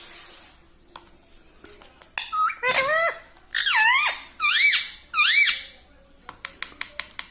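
Ringneck parrot giving a series of shrill, squeaky calls, each rising and then falling in pitch, with the last three the loudest. Near the end a run of quick sharp clicks, about four or five a second, starts up.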